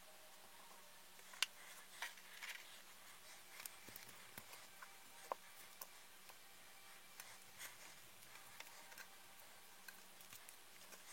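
Faint, irregular clicks and light taps of small parts being handled, the sharpest about a second and a half in, typical of working on RC car shock parts by hand.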